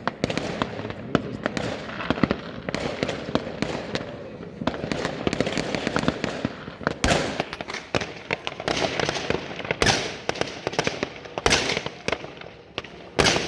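Fireworks and firecrackers going off all around: a dense, continuous run of pops and bangs, with several louder bangs standing out.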